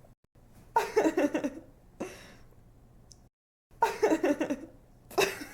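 A young woman giggling in short bursts of quick ha-ha pulses: one burst about a second in, a breath drawn in at about two seconds, then, after a brief dead-silent gap, two more bursts from about four seconds on. It is a sound-effect laugh repeated on a loop.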